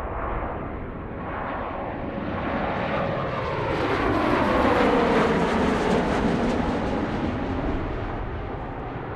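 Jet airliner passing close by. Its engine noise swells to a peak about halfway through and then fades, while the engine whine falls in pitch as the aircraft goes past.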